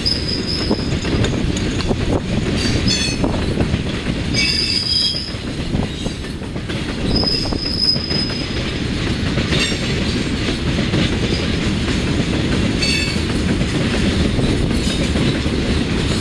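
Freight train of tank cars rolling past: a steady rumble of steel wheels on rail, with brief high-pitched wheel squeals several times, about a second in, near five seconds and near eight seconds.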